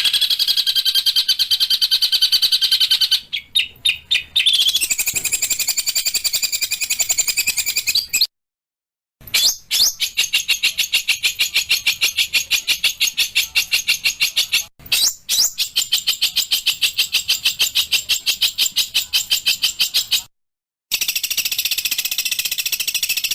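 Recorded small songbirds singing fast, evenly repeated high-pitched notes, about ten a second: rapid-fire 'tembakan' song phrases spliced together as a masteran for tutoring pet songbirds. The song breaks briefly a few times, with two short dead-silent gaps where clips are joined.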